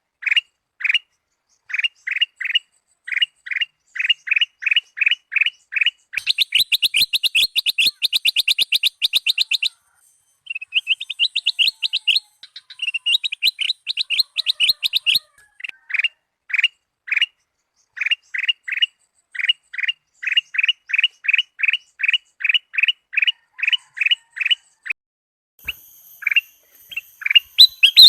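Kutilang emas (ruby-throated bulbul) calling: series of short, clear whistled notes several a second, broken twice by fast trilling runs in the middle, with faint steady high tones joining near the end.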